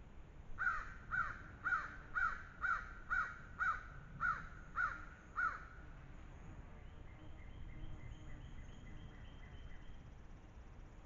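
A bird calling in a run of ten short, down-slurred calls, about two a second, that stops about halfway through. After it comes a fainter, higher series of quick notes.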